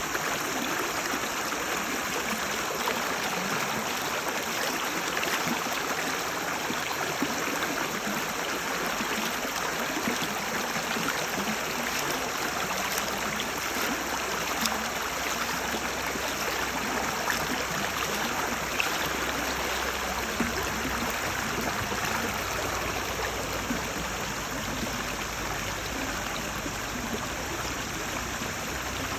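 Stream water flowing and babbling steadily over stones, with small splashes and trickles.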